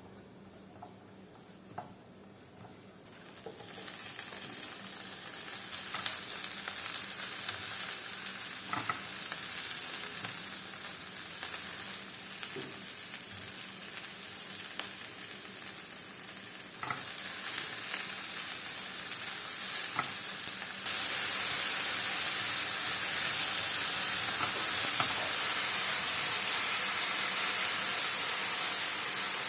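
Food sizzling as it fries in a pan, with a few light utensil taps. The sizzle starts a few seconds in, eases off about halfway, then comes back and grows louder toward the end.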